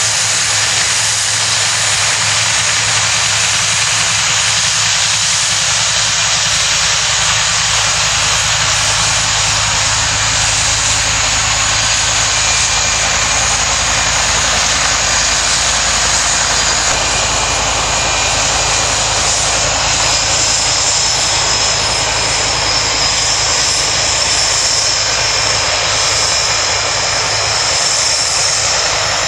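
Steady, loud rushing noise with no breaks, joined by a faint high whine about twenty seconds in.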